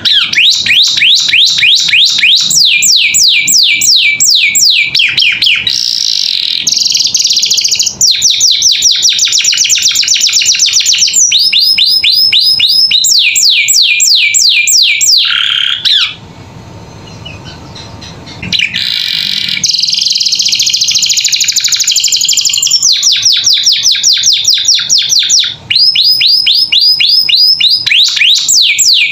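Domestic canary singing: long, rapid trills of repeated sweeping high notes, switching to a new trill every second or two, with a break of about two seconds a little past the middle.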